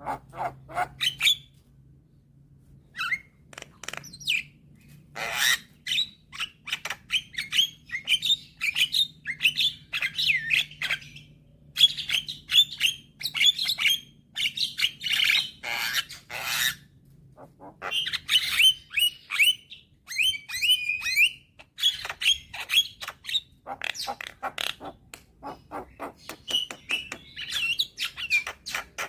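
Young Javan myna singing a lively, varied song: rapid clicking chatter, squawks and whistled notes, in bursts separated by short pauses.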